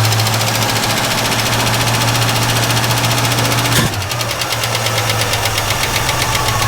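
Ford 289 V8 being cranked by its starter motor, turning over in fast, even pulses without firing, with a sharp click about four seconds in before the cranking goes on. It is a no-start: fuel is not being pulled up from the tank to the carburettor.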